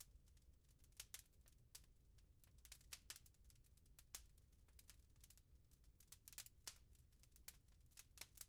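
Wood fire crackling in a fireplace: faint, irregular sharp pops, several a second, over a low steady rumble.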